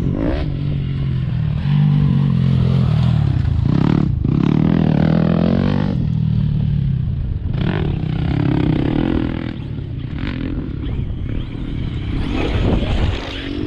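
Traxxas Sledge electric RC monster truck driven hard: its motor and drivetrain whine rises and falls with the throttle, cutting off briefly a few times.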